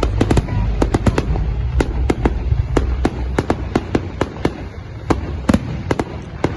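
Fireworks going off in a rapid, irregular string of sharp bangs and crackles, several a second, over a steady low rumble.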